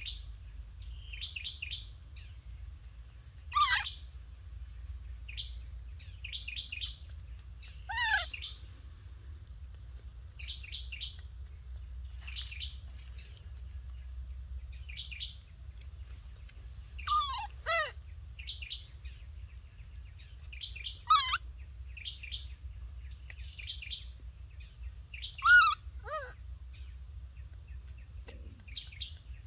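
Birds chirping in quick groups of short high notes, with a loud call every few seconds that falls steeply in pitch, over a thin steady high tone.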